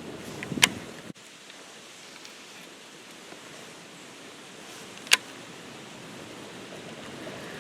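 Steady wind noise outdoors, with two sharp clicks, one about half a second in and one about five seconds in; the noise drops a little after a brief break near one second.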